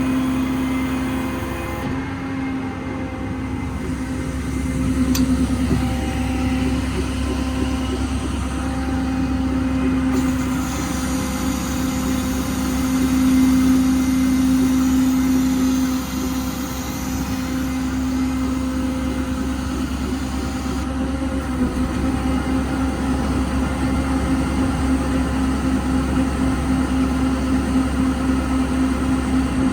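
Paccar PX9 diesel engine of a Peterbilt 337 service truck running, with a steady whine over its rumble that swells louder twice, about five and thirteen seconds in.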